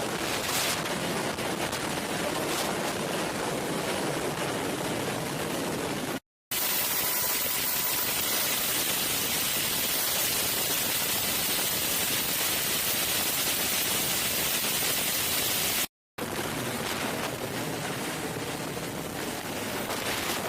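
Helicopter in flight: a steady rushing noise of rotor and turbine, broken twice by brief cuts to silence.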